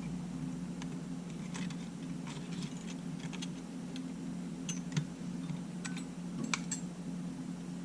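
Scattered light clicks and taps of small tools and parts being handled while working inside a disassembled Sony A7 camera, over a steady low hum.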